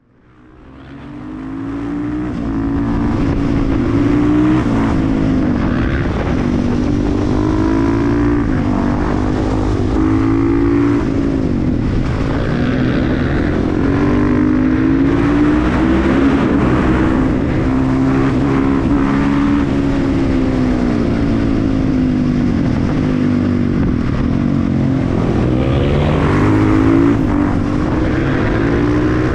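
KTM 350 EXC-F supermoto's single-cylinder four-stroke engine being ridden hard, its pitch repeatedly rising as it revs and dropping, fading in over the first couple of seconds.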